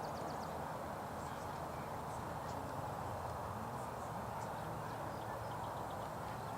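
Steady outdoor background noise with small birds chirping now and then, including a couple of short rapid trills.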